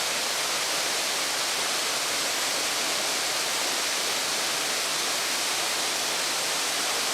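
Waterfall in full spate after heavy rain: a steady, even rush of falling water.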